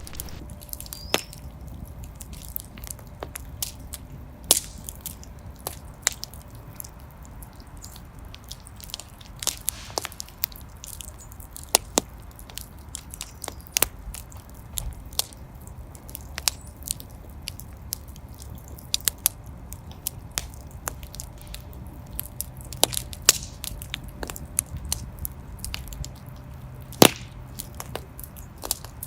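Wood fire burning in a fireplace, crackling with irregular sharp pops over a low steady rumble of the flames; the loudest pop comes about 27 seconds in.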